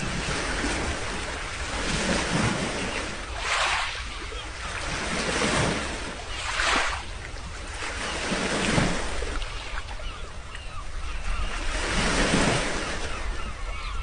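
Sea waves breaking and washing onto the shore, one surge after another every second or two, with wind rumbling on the microphone.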